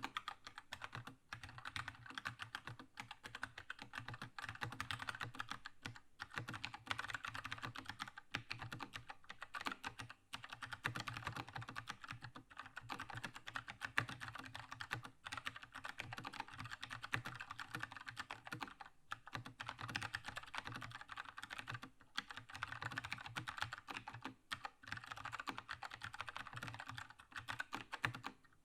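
Continuous fast typing on a Keychron K2 mechanical keyboard with linear red switches: a dense clatter of keystrokes, broken by short pauses now and then.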